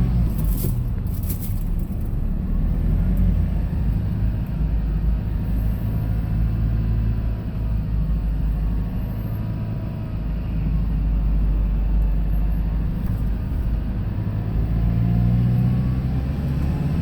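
Hyundai Porter II box truck driving, its engine and road noise making a steady low rumble, with a couple of short clicks about a second in.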